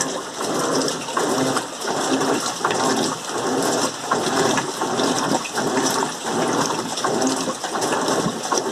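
Electrolux LM08 top-loading washing machine agitating on a low-water rinse: water and towels slosh back and forth in regular surges roughly once a second.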